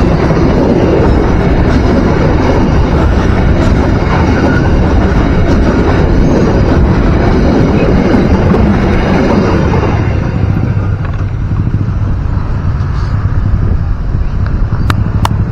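Passenger train coaches rushing past at close range: a loud, steady rumble and clatter of wheels on rail that eases after about ten seconds as the last coach pulls away. Two sharp clicks near the end.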